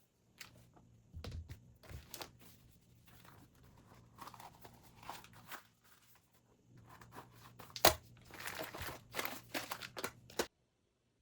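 Irregular rustling, crinkling and small knocks of belongings being handled and sorted, with one sharper knock about eight seconds in. The sound cuts off abruptly near the end.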